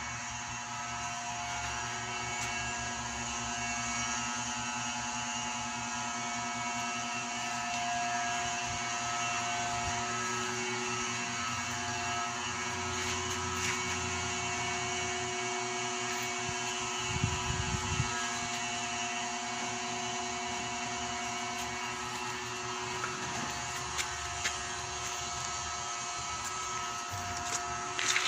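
A steady mechanical hum holding several fixed tones over a hiss, with a few faint clicks and a brief low rumble about two-thirds of the way through.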